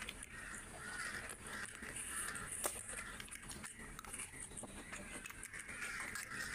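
Close-miked eating sounds: wet chewing and lip-smacking while a mouthful of rice and curry eaten by hand is chewed, with a sharp click about two and a half seconds in.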